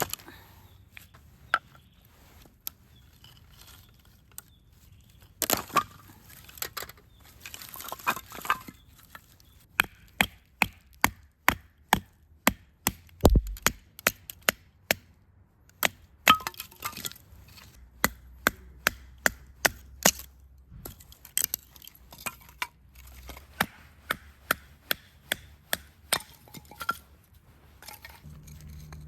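Firewood being split or chopped into kindling: a long series of sharp wooden knocks, about two a second, with stretches of scraping and rustling wood between them.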